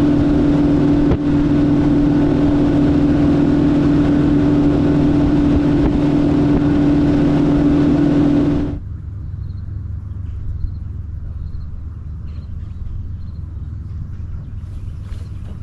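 Boat outboard motor running steadily at speed with a strong steady hum. About two-thirds of the way through the throttle is cut, the loud running stops abruptly, and only a lower rumble remains.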